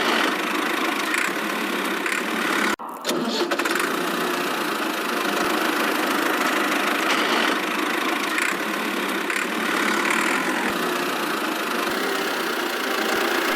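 A small engine or motor running steadily, cut off for a moment about three seconds in.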